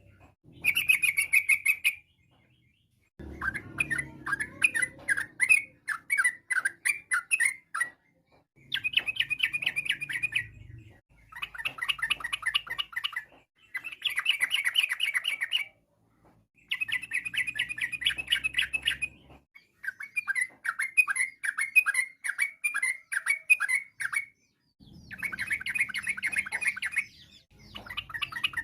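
Yellow-vented bulbul (trucukan) singing a rapid, chattering 'ropel' song. It comes in phrases of two to five seconds, repeated one after another with short pauses.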